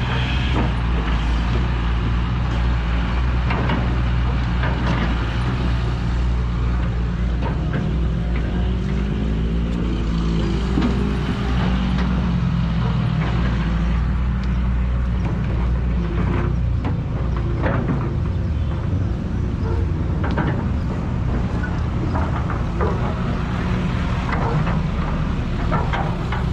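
Diesel engines of backhoes working, a steady low drone. The engine note rises and then holds around eight to twelve seconds in as the revs go up. Scattered clanks and knocks come later on.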